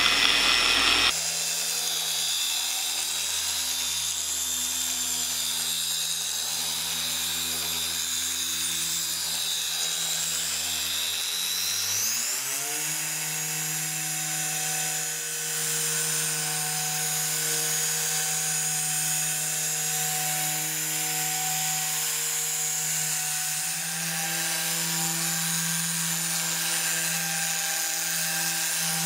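Electric car-paint polisher running with a polishing pad and final polish on paint, first at its lowest speed to spread the polish. About twelve seconds in its pitch rises as it is sped up, then it holds steady.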